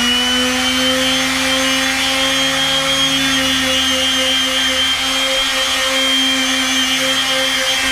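Makita random orbit palm sander running at a steady speed, sanding the deck boards.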